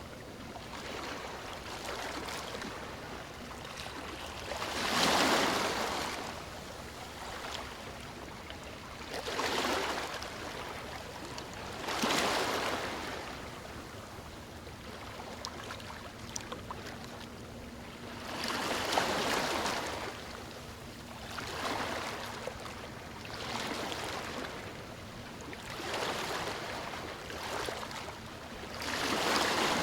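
Sea waves washing onto a shore: a steady hiss of surf with a wave surging up and falling away every few seconds.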